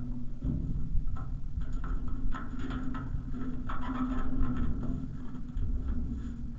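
Electric bike on the move: a steady motor hum over a low rumble of tyres and wind on the microphone, with scattered small clicks and rattles.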